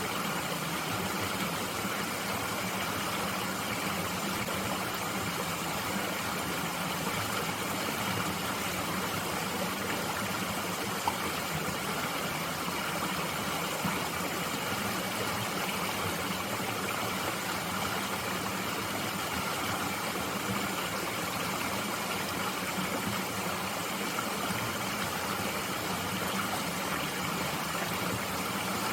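Mountain stream flowing, a steady unbroken rush of water, with one small click about eleven seconds in.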